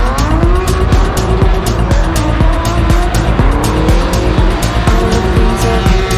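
Electronic dance music with a steady beat, mixed with a car engine revving up and down and tyres squealing, as in a drifting display.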